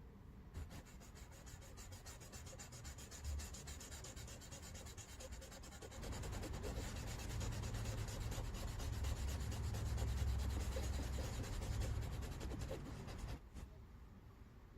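Rapid back-and-forth rubbing strokes on colouring-book paper as colour is worked in. The strokes grow louder about six seconds in and stop shortly before the end.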